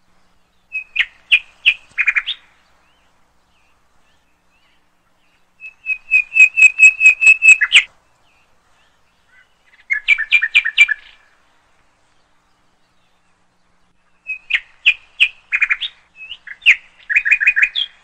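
A small bird singing in four phrases of quick, evenly repeated chirps, each phrase lasting one to three seconds, with short silent gaps between them.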